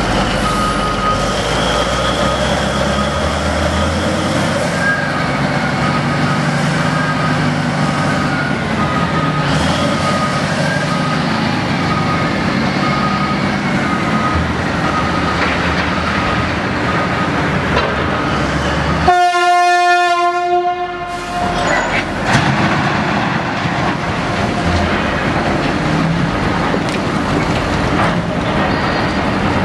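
Volvo dump truck engine running with its reversing alarm beeping steadily about once a second. About two-thirds of the way through, a loud horn sounds for about two seconds, then the engine noise goes on.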